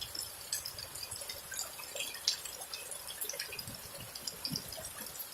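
Steady rain falling, with many separate drops dripping close by as scattered short ticks.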